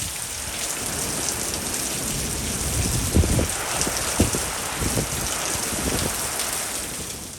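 Heavy hurricane rain pouring steadily, with a few low bumps from gusts of wind.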